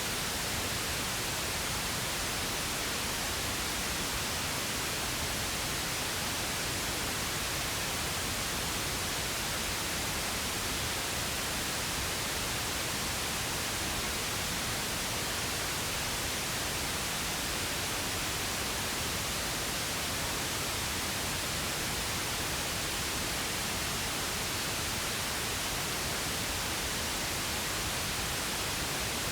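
Steady, unchanging pink noise: a continuous even hiss across the whole range, with no breaks or changes.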